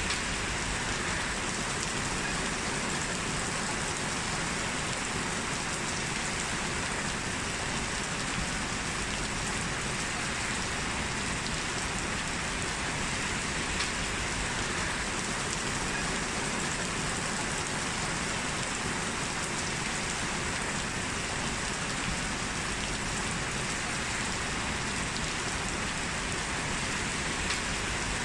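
Heavy rain falling and pattering on hard surfaces as a steady, even hiss with no lulls.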